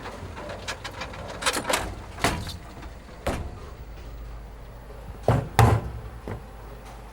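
A run of sharp knocks or bangs, about seven, the loudest pair a little after five seconds in, over a steady low hum.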